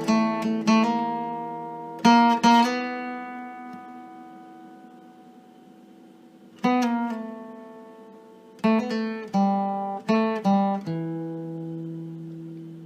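Acoustic string instrument strumming chords in short groups, each chord left to ring and fade away. Between the groups there is a gap of a few seconds, and a final chord rings on to the end.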